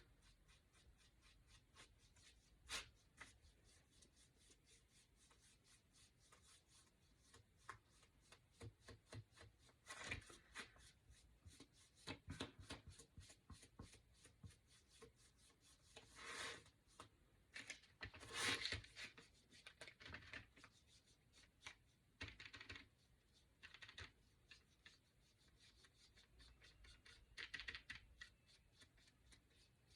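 Faint, scattered rubbing and scratching of a paintbrush working paint onto a small wooden cutout, with a few light taps and clicks of handling, in near silence.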